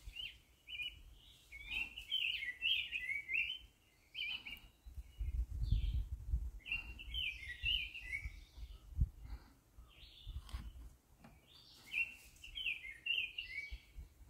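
A songbird singing in repeated phrases of quick, warbled chirps, several times over. A low rumble comes in around the middle, and a single thump about nine seconds in.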